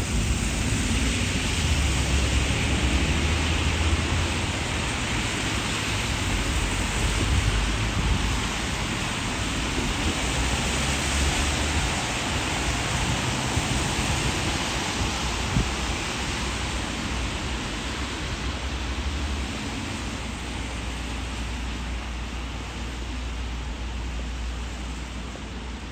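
Steady rain falling, a continuous even hiss, with a low rumble underneath. It grows a little quieter toward the end.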